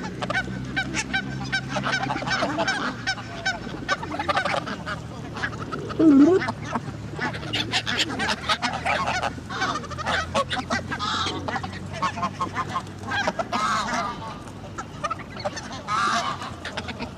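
Geese honking repeatedly from a flock of geese, ducks and gulls crowding in to be fed. The loudest honk comes about six seconds in, and many short sharp clicks run through it all.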